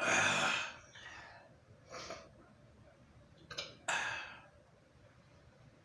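A person breathing out heavily in sighs, with a loud exhale at the start and another about four seconds in, and fainter breaths between.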